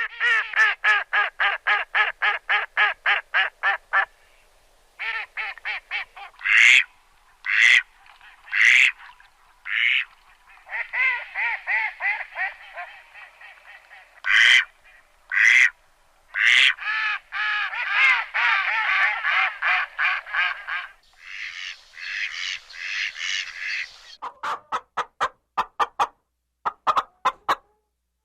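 Ducks quacking: fast runs of short quacks alternating with single loud calls, in several bouts.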